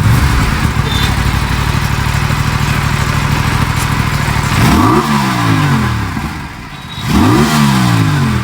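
Aprilia RS 457 parallel-twin engine starting and idling steadily, then blipped twice on the throttle, revs rising and falling back, about halfway through and again near the end.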